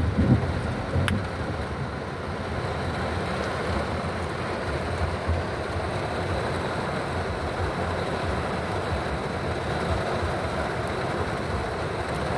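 Heavy rain pelting steadily on the roof and windows of a parked car, heard from inside the car. A low rumble fades out in the first moment.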